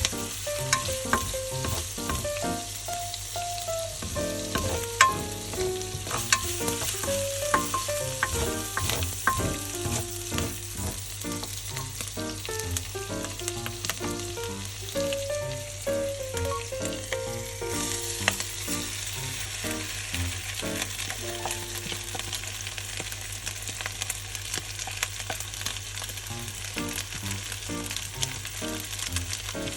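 Fried rice sizzling in a hot pan as it is stir-fried, with repeated sharp clicks of the spatula against the pan. The sizzle gets brighter and hissier a little past halfway.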